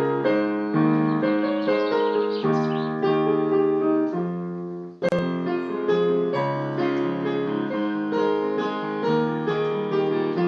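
Solo piano playing a slow original composition: chords and a melody struck note after note. About halfway through the sound dips briefly and there is a single sharp click before the playing resumes.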